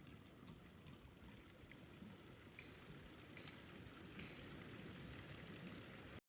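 Faint, steady rushing noise like running water outdoors, with a few light ticks in the middle; it cuts out abruptly just before the end.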